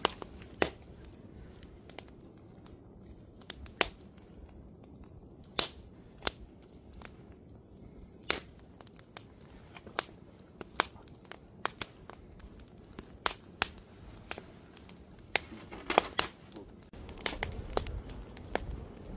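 Campfire of burning wood crackling, with sharp pops at irregular intervals over a low rumble of flame. The pops come thickest near the end, where the rumble also grows.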